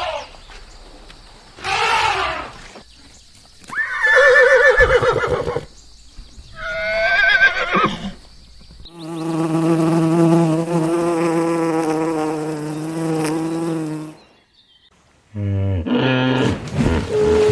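A run of separate animal calls one after another: two short noisy calls, then two wavering pitched calls, then one long steady pitched call lasting about five seconds, and a lower call near the end.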